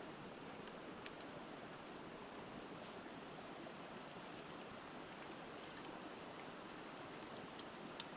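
A river flowing steadily, with a few sharp pops and crackles from a wood bonfire, the clearest about a second in and near the end.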